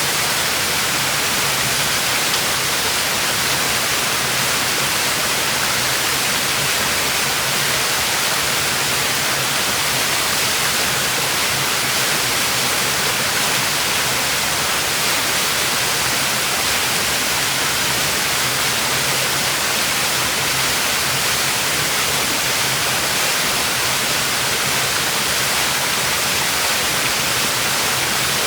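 Waterfall pouring steadily into a plunge pool: a constant, even rush of falling water with a bright hiss.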